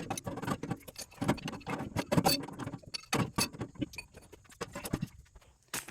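Metal parts and hand tools clinking and knocking irregularly while a water pump unit is taken apart, the clatter thinning out near the end.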